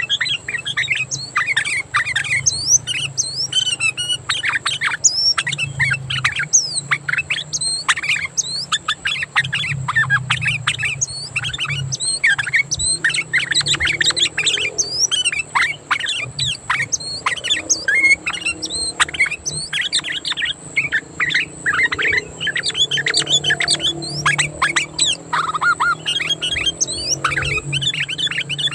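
Sooty-headed bulbul (kutilang) calling loudly and without pause, a rapid run of short sweeping chirps and squawky notes, over a steady high whine and a low hum.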